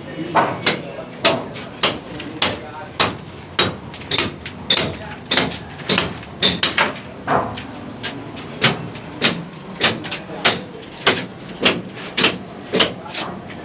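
Hammer blows on a building site, a sharp knock a little under twice a second in a steady rhythm, with a few quick doubled strikes.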